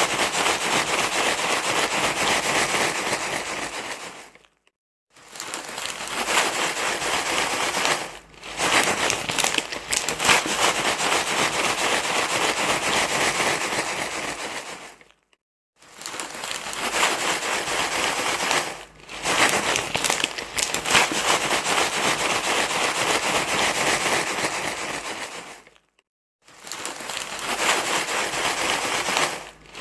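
Dense crinkling, crackling rustle, like something being crumpled and rubbed by hand, going on in long stretches. It stops briefly three times, a few seconds in, about halfway and near the end, with shorter dips in between.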